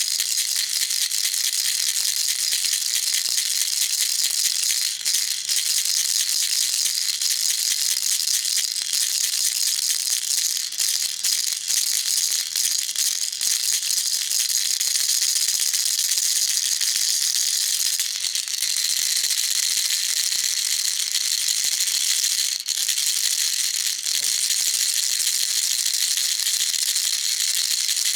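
Baby rattle shaken continuously, a dense, steady high-pitched rattling of small beads with a few brief dips.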